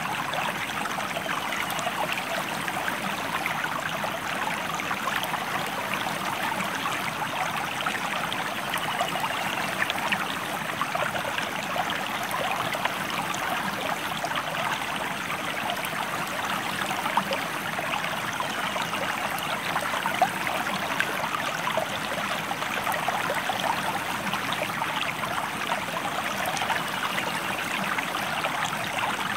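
River or stream water flowing, a steady rushing babble that stays even in level throughout.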